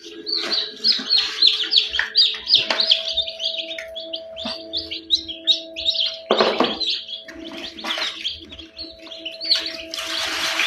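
Chicks peeping repeatedly in quick, short, falling chirps, over a steady hum. A brief rustle comes near the end.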